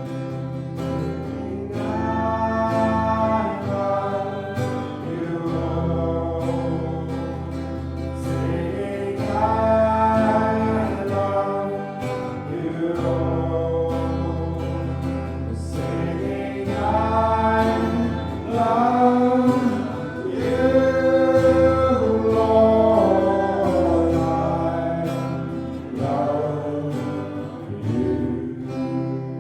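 Slow gospel worship song sung to strummed guitar accompaniment.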